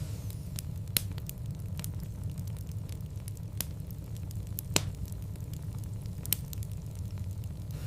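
Wood fire in a fireplace crackling, with a handful of sharp pops, the loudest nearly five seconds in, over a steady low rumble.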